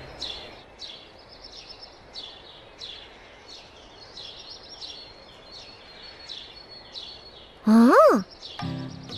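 Cartoon birdsong ambience: short high bird chirps repeating at an even pace. Near the end comes a brief loud cry that swoops up and then down in pitch.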